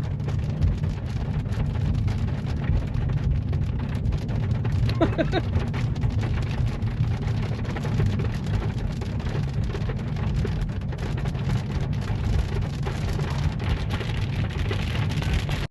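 Heavy rain of big raindrops splashing on a street, many separate drop hits over a steady low rumble. There is a short chirp about five seconds in.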